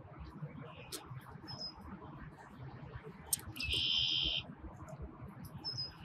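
Marsh ambience: a low rustle underneath, a few short high bird chirps, and a louder high bird call lasting just under a second about halfway through.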